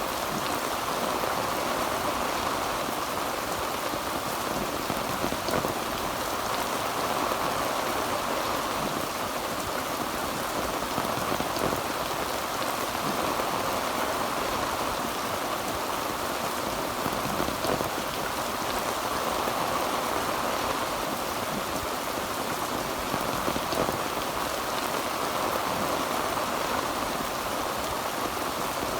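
Heavy rain falling steadily on a tin roof: a dense, even patter with no thunder.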